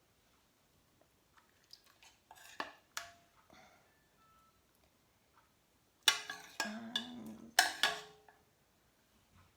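A spoon knocking and scraping against a cooking pot while curry is spread over the rice: a few light clinks, then a louder cluster of clanks about six to eight seconds in.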